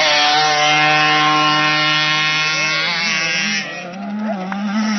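Motocross bike engine revving up, then held at high, steady revs close by, easing off and wavering about three seconds in.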